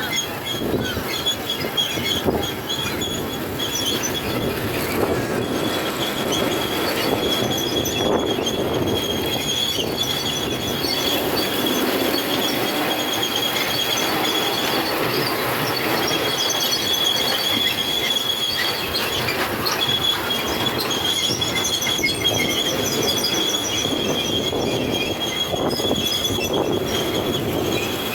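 Miniature railway train running on the track, its wheels giving a high, steady squeal that drops out and comes back several times over a continuous rolling rumble.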